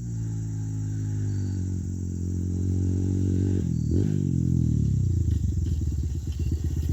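Honda CRF100 dirt bike's single-cylinder four-stroke engine running during a bump-start attempt, its pitch creeping up. About four seconds in there is a brief clunk, then the engine note falls and breaks into uneven, slowing chugging as the engine bogs down.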